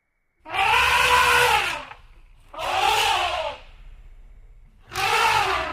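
Elephant trumpeting three times: brassy, noisy calls of a second or so each that rise and fall in pitch, about two seconds apart.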